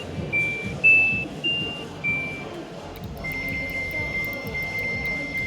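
Electronic beeps from a washing or drying appliance's control panel: a short tune of about five notes at slightly different pitches, then one long steady beep from a little past halfway, typical of a machine being switched on and its buttons pressed.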